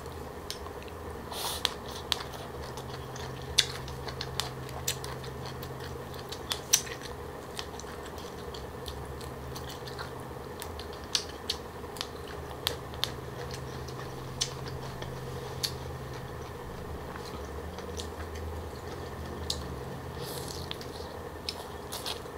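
Close-miked chewing and biting of green papaya salad with pig ear and shrimp, with sharp crunchy clicks scattered throughout, over a steady low hum.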